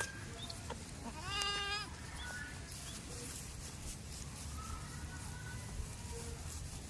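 A goat bleats once, about a second in: a short call that rises and then holds with a quaver.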